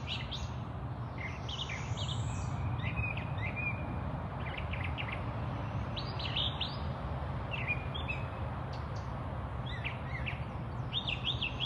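Wild birds chirping and calling in short, scattered notes and trills, over steady low background noise.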